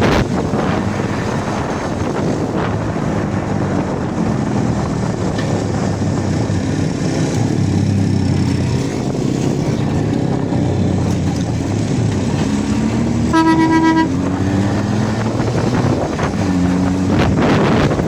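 Motorcycle engine revving up and down as it accelerates, with wind rushing over the microphone. About 13 seconds in, a vehicle horn gives one short blast of about half a second.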